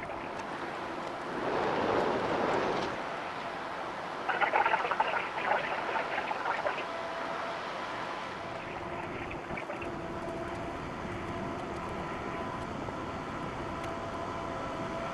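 Steady machinery hum with several faint held tones, from the tanker in the lock. A louder patch of irregular crackling comes about four seconds in and lasts a couple of seconds.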